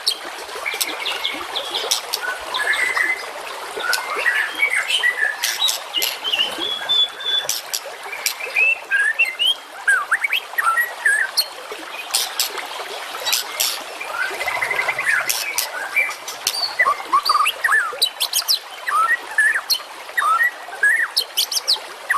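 A masteran mix of songbird calls for training contest songbirds: a dense, continuous run of rapid chirps and short rising whistles, peppered with sharp clicking notes.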